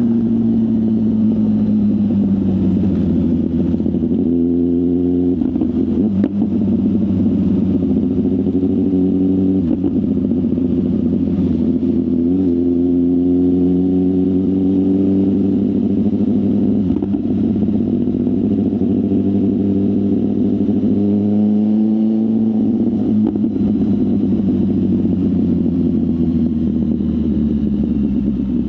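BMW S1000RR inline-four engine running through a full aftermarket exhaust while the bike is ridden. The revs climb and fall back several times as the rider accelerates, changes gear and eases off.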